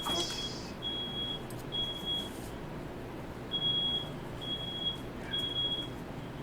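Smoke alarm sounding its high steady beep in the three-beep alarm pattern: three beeps, a pause, then three more. It has been set off by smoke from a firework let off indoors.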